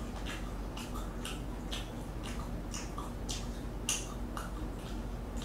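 A man chewing boneless fried chicken close to the microphone: a string of short mouth clicks and smacks, about two a second, over a faint steady low hum.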